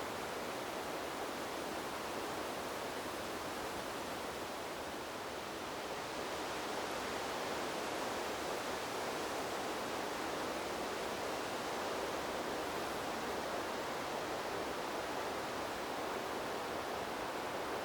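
Wind blowing through a bamboo grove, a steady rushing sound that dips slightly about five seconds in and swells again soon after.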